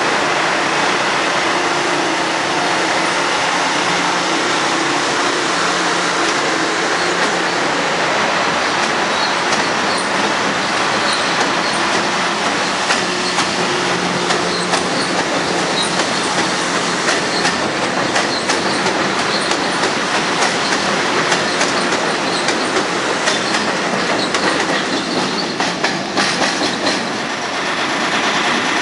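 Long Island Rail Road M-7 electric multiple-unit train running along the platform: a steady rumble of wheels on rail, with quick clicks over the rail joints and some wheel squeal. Near the end it cuts to an M-3 train approaching.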